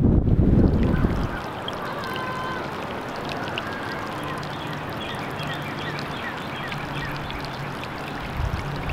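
Strong wind buffets the microphone and dies down about a second in. A steady hiss follows, with faint high chirping tones over it.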